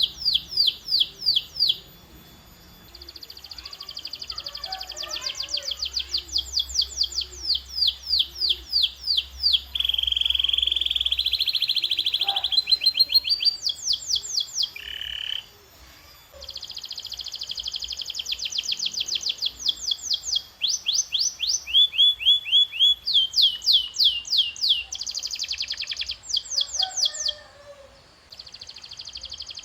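Domestic canary singing: fast trills of rapidly repeated high notes in phrases of several seconds, broken by short pauses, with one longer note that rises slightly about ten seconds in.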